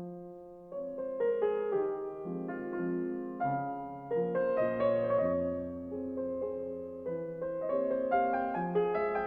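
Slow, gentle piano music: soft chords and a melody, each note struck and left to ring out.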